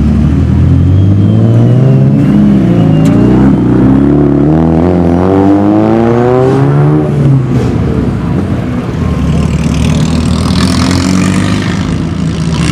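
A car's engine revving as it accelerates away. Its pitch climbs, dips briefly, climbs again for a few seconds, then drops back. A hiss follows near the end.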